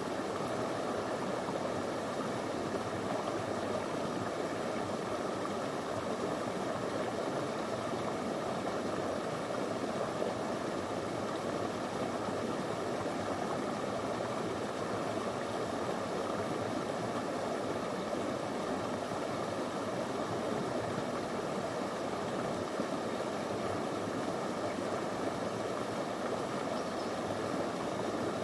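Shallow stream flowing steadily over stones, an even rushing and burbling of water.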